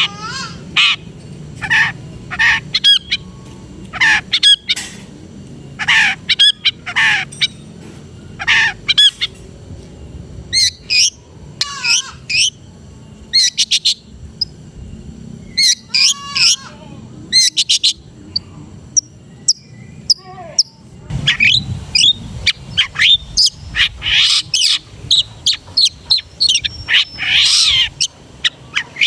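Long-tailed shrike (cendet) singing a varied song of short whistled and slurred notes mixed with harsh, chattering squawks, the rich mimicked 'fill' prized by bird keepers. The harsh notes come thickest in the last third.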